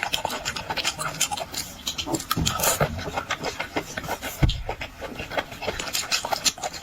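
Close-miked eating of boiled shellfish: dense, irregular crackling and clicking of shells being broken and chewed, with a dull thump about four and a half seconds in.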